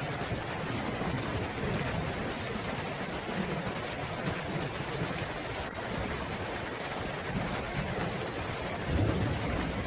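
Steady rain falling in a dense, even patter, with a low rumble swelling slightly near the end.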